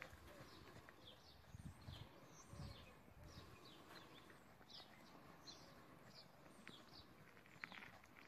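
Faint small-bird chirping: a run of short, high, downward-sliding chirps, about one or two a second, with a few soft low thumps in the first few seconds.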